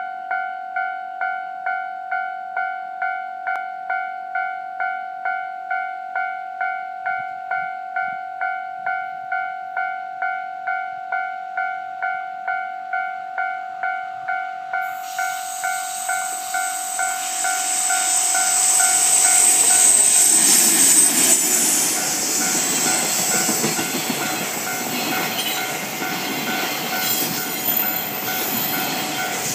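Japanese level crossing alarm ringing about twice a second. About halfway through, an EF81 electric locomotive hauling a container freight train is heard approaching; it passes loudest about two-thirds in, and the container wagons then rumble past on the rails with the alarm still going underneath.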